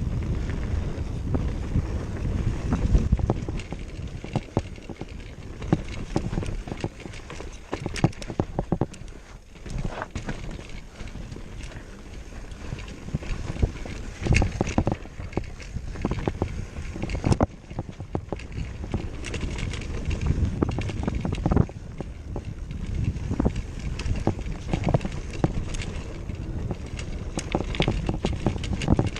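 Wind buffeting the microphone with a steady low rumble, broken by many irregular clicks and knocks.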